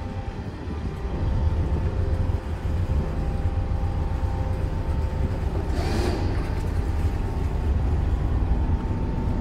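Boat engine running steadily with a deep rumble. A short hiss comes about six seconds in.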